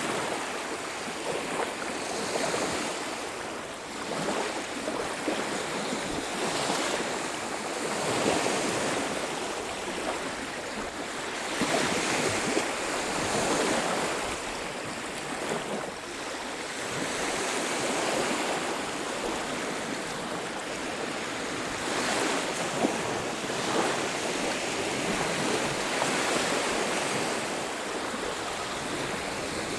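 Ocean surf washing onto a beach, waves swelling and fading every few seconds.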